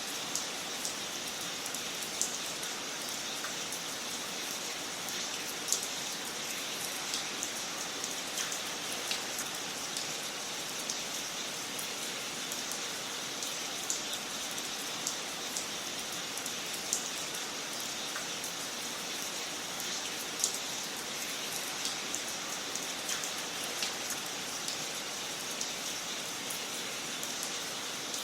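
Wood fire burning in a fireplace, crackling: a steady hiss with sharp pops and snaps at irregular intervals.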